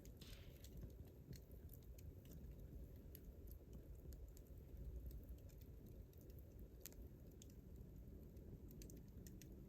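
Wood campfire crackling softly: scattered faint pops and ticks at irregular intervals over a low rumble.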